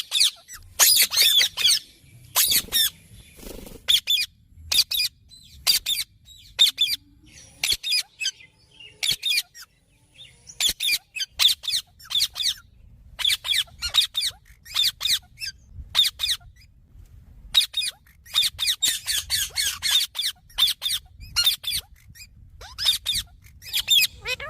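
Green parrot calling: a long run of short, shrill squawks and chirps in quick clusters, with a few brief pauses between them.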